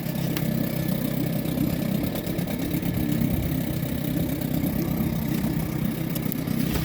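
An engine idling steadily, with wind buffeting the microphone.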